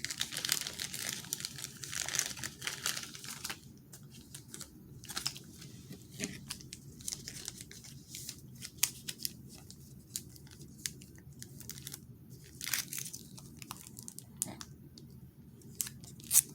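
Plastic team bag crinkling as a trading card is slid into it and handled, a dense crackle for the first few seconds, then scattered crinkles and clicks.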